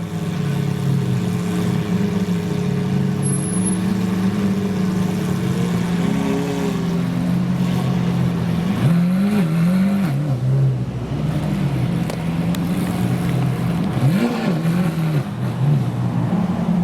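Car engines running at idle, with short revs that rise and fall about nine seconds in and again about fourteen seconds in.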